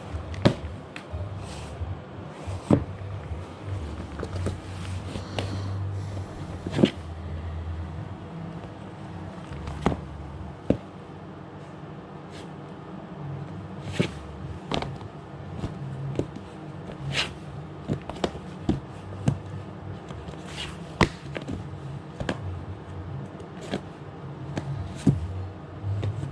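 Scattered knocks and clicks of objects being picked up and set down, with footsteps, over a low uneven rumble.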